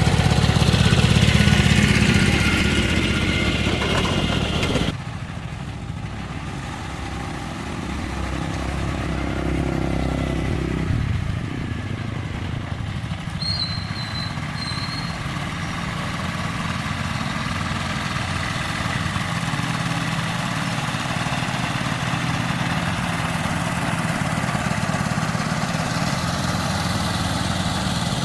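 An engine running steadily, with an abrupt drop in loudness and a change in its sound about five seconds in.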